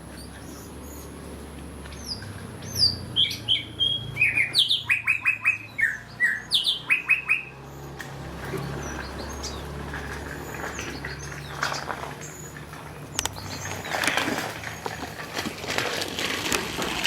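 Cinereous tit (gelatik batu) calling: a quick run of short, sharp chirps, many falling in pitch, over about five seconds, then fainter scattered chirps. A rustling noise comes in near the end.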